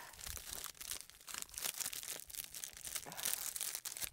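Plastic MRE packets crinkling and rustling as they are rummaged through, a continuous irregular crackle.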